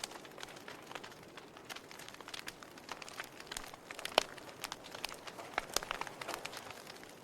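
Wood fire burning in a fireplace: scattered sharp crackles and pops over a soft hiss, with one louder pop about four seconds in.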